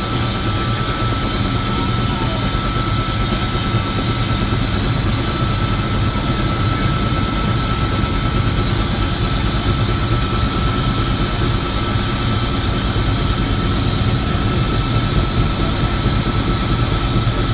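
Helicopter engine and rotor running, heard from inside the cabin: a loud, steady drone with a constant high whine over it.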